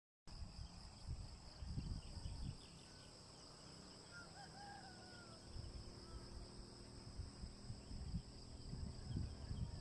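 A rooster crowing once, faintly, about four seconds in, over a steady high-pitched drone of insects and a low rumble of wind on the microphone.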